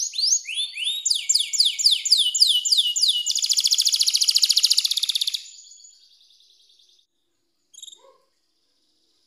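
Domestic canary singing: a run of repeated high downward-sweeping notes, about three a second, then a rapid trill that stops about five seconds in. A faint trailing trill and a short chirp follow near the end.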